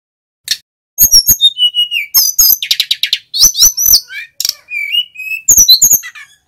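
Male sikatan gunung (mountain flycatcher) singing loudly: after a single short note, a rapid, varied song of high whistles, slurred notes and trills starts about a second in and runs until just before the end.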